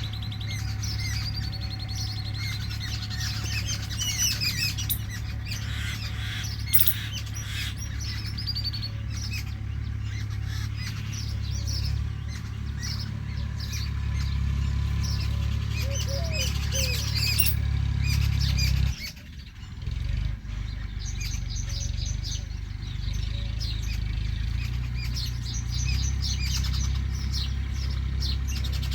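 Many small birds chirping and calling in quick, overlapping bursts, over a steady low rumble that cuts out briefly about two-thirds of the way in.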